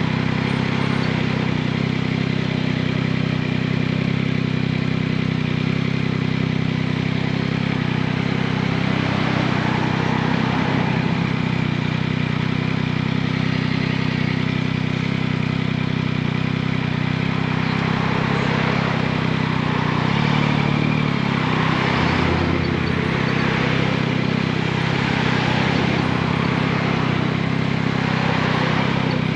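2021 Yamaha MT-09's 890 cc three-cylinder engine running at steady, near-constant revs, with no revving.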